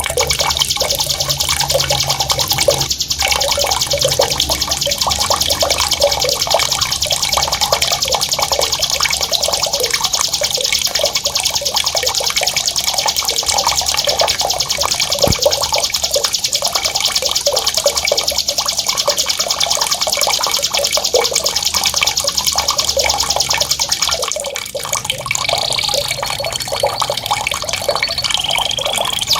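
A songbird's long, very fast rolling trill (ngerol), high and unbroken, over the bubbling of running water. The trill stops near the end, giving way to a few short whistled notes while the water goes on.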